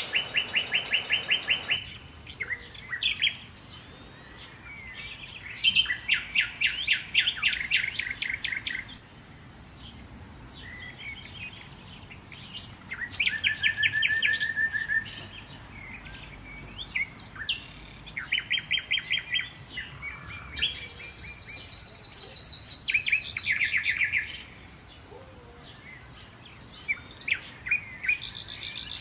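Birds singing: repeated song phrases of fast trilled notes and chirps, each lasting a second or few, with short pauses between them.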